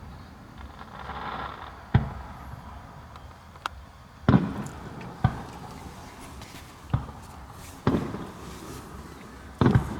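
Fireworks bursting overhead: a string of sharp booms about a second apart, each trailing off briefly, with the loudest one around four seconds in.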